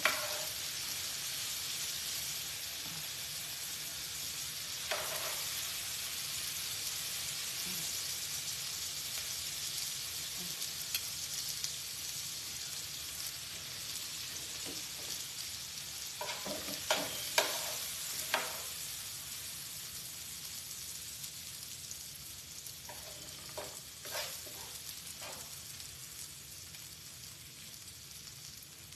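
Sliced peppers and onions sizzling in oil on a stovetop griddle pan, a steady hiss that slowly dies down, with a few clusters of clinks and scrapes as metal tongs turn the vegetables against the pan.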